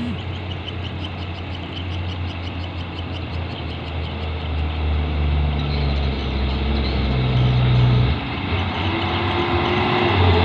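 Diesel engine of a heavy 8x4 truck running with a steady low hum. Its pitch shifts, with a sudden change and a brief dip in level about eight seconds in, and it grows louder toward the end.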